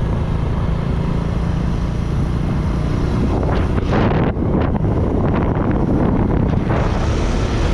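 Wind buffeting the microphone over a steady low engine drone, as when recording from a moving vehicle; the buffeting gets rougher and gustier about halfway through.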